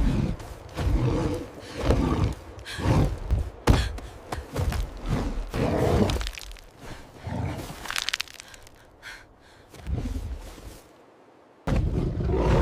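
A run of irregular heavy thuds and cracks, with a sharp crack about four seconds in, a quieter stretch near the end, and then a loud burst.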